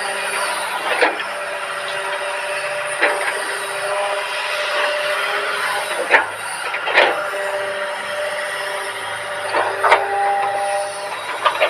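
Excavator engine and hydraulics running steadily, with a few high steady tones, broken by about six sharp knocks at irregular intervals during pile-installation work.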